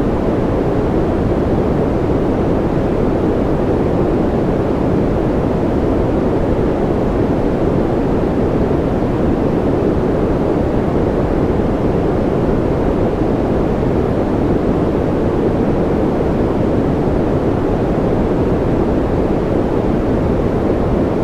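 Continuous rain-style white noise: an even, deep rush that stays steady throughout, with no separate drops or other sounds.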